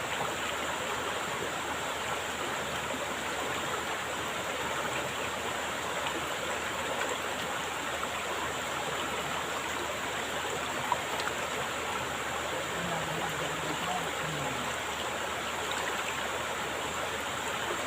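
Steady rush of flowing stream water, with a faint voice heard briefly past the middle.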